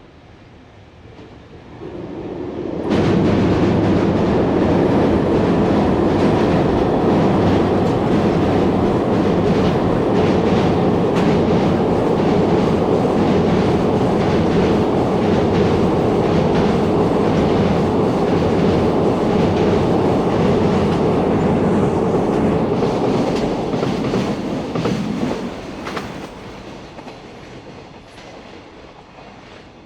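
Electric-locomotive freight train passing close by: it comes up quickly, is suddenly loud about three seconds in, and then a long run of wagons goes past with wheels clacking over the rail joints, before it fades away over the last few seconds.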